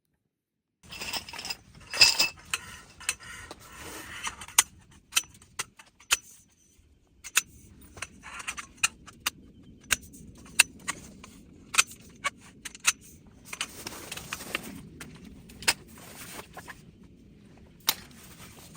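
Camping gear being handled: small hard items clinking and clicking against each other in an irregular run of sharp knocks, with rustling between them. It starts about a second in, after a moment of dead silence, and pauses briefly near the middle.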